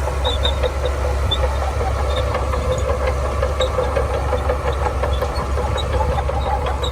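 Shantui crawler bulldozer's diesel engine running steadily under load, with frequent small metallic clicks and clanks through the rumble.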